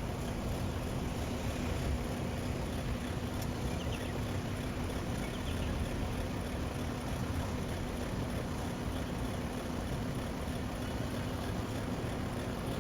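A heavy truck's engine running steadily: a constant low rumble with a steady hum and no change in speed.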